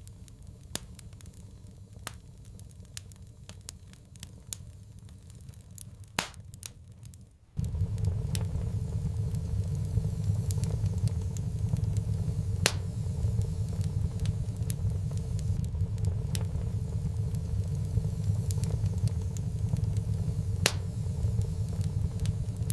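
Wood fire crackling, with scattered sharp pops and snaps. About seven and a half seconds in, a loud steady low rumble cuts in abruptly under the crackling and continues.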